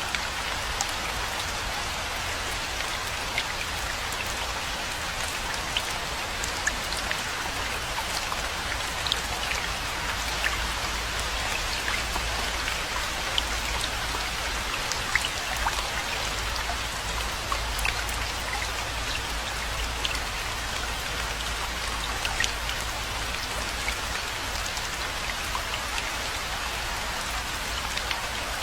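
Steady rainfall: a constant hiss with many individual drops ticking sharply on a surface, over a low rumble.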